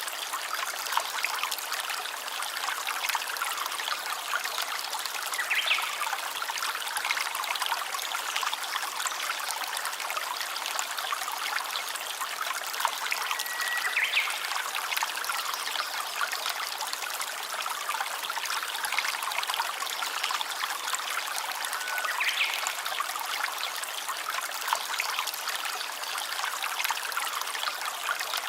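A small stream trickling and babbling steadily over stones, with three faint short high chirps spread through it.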